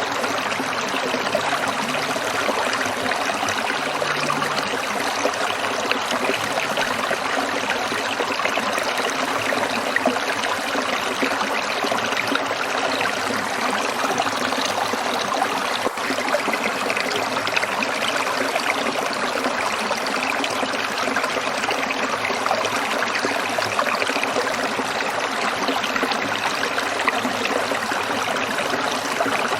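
Stream water trickling, a steady even rush with no breaks.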